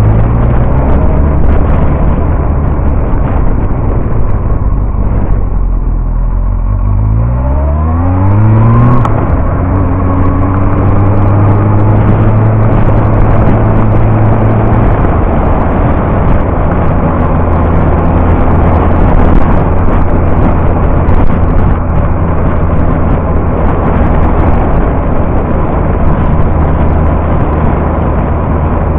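Yamaha R1 sport bike's inline-four engine running under way. About a quarter of the way in, its pitch climbs steeply as the rider accelerates, then it settles into a steady cruise.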